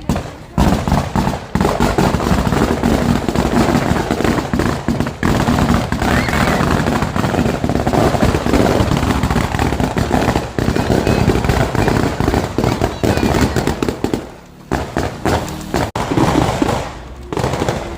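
A long string of firecrackers going off in rapid, continuous crackling pops, easing briefly about fourteen seconds in.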